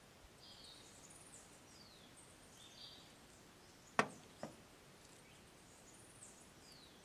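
Faint birdsong: short high chirps and quick falling whistles repeating through the quiet outdoor background. Two sharp clicks about half a second apart sound about four seconds in.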